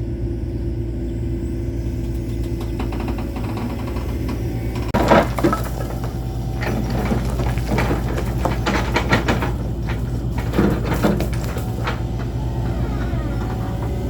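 A steady low mechanical rumble, like a running engine, with a run of sharp knocks and clatter starting about five seconds in.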